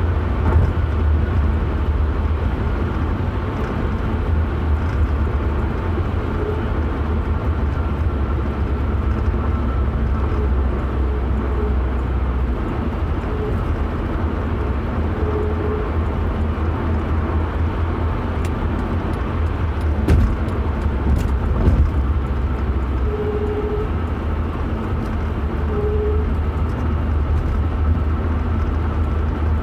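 Steady low rumble of a vehicle under way, with a few short, steady high tones coming and going every few seconds over it.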